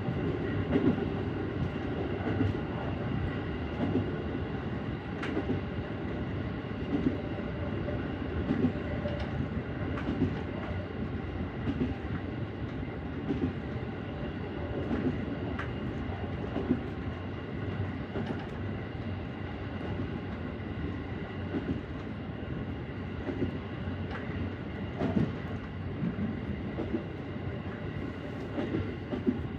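JR Central 313 series electric train running at speed, heard from inside the front car: a steady rumble of wheels on rail with faint steady tones above it and irregular clicks as the wheels cross rail joints.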